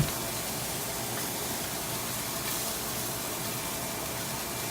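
Chicken pieces sizzling steadily in a frying pan, an even hiss throughout, with one sharp knock right at the start and a few faint ticks.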